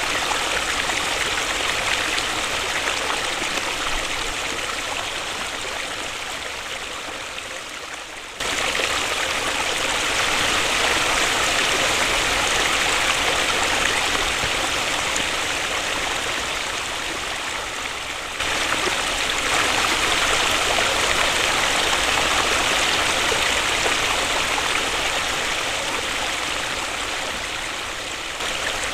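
Waterfall rushing in a steady, even roar of falling water. The level sinks slowly and then jumps back up abruptly twice, about a third and two-thirds of the way through, as at cuts between recordings.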